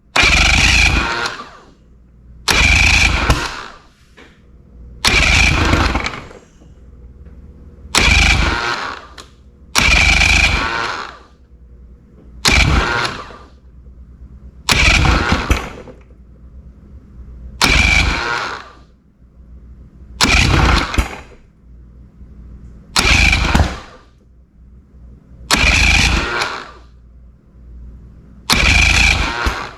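Three-cylinder boat outboard motor running roughly, surging loud about every two and a half seconds and dropping back in between. It is misfiring intermittently on one cylinder, which the owner takes for an ignition timing problem.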